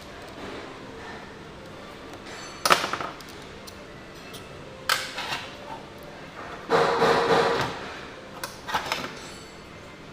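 Metal parts and tools being handled on a workbench during a carburetor strip-down: four separate clinks and knocks, the third a longer clatter of about a second.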